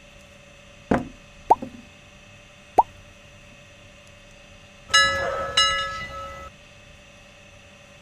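Three short knocks, then two loud metal clanks about half a second apart whose clear tones ring on for about a second, from steel parts being handled and struck in the workshop. A faint steady hum sits under them.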